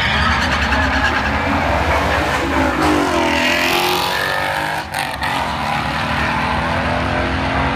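Drag-racing cars at full throttle, a Nissan 370Z's V6 and a Ford Mustang GT's V8 through a Roush exhaust, the engine note climbing in pitch about three seconds in as they accelerate.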